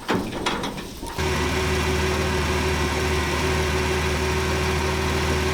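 A few clicks and knocks, then about a second in a loud, steady mechanical drone from a vehicle starts abruptly and holds level.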